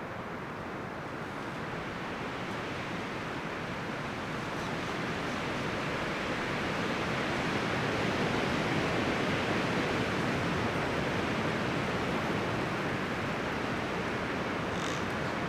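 Wind rushing through the leaves and branches of forest trees, a steady rustling that swells louder over the first half and then holds.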